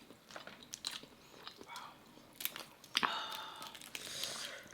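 Close-up eating sounds of crab and lobster: scattered small wet clicks, bites and chewing. A faint murmur of a voice comes in about three seconds in.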